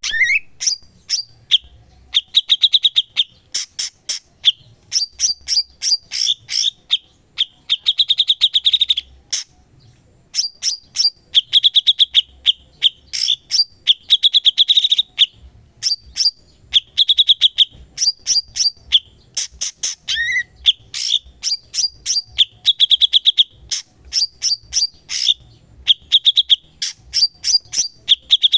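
Cucak cungkok songbird singing nonstop: phrase after phrase of fast chattering trills and sharp repeated notes, with an occasional rising whistled sweep.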